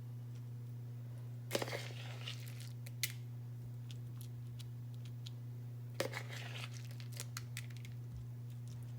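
Spoon scooping a sticky birdseed mixture into an apple half: two brief gritty rustles of seed, about one and a half seconds and six seconds in, with a few small clicks of the spoon, over a steady low hum.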